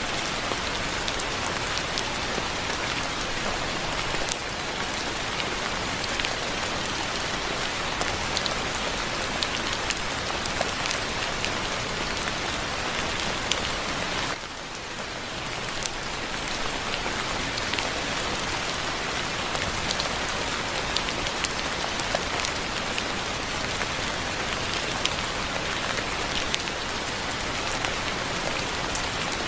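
Steady soft rain falling, an even hiss with many individual drops ticking close by. It eases briefly about halfway through, then returns to the same level.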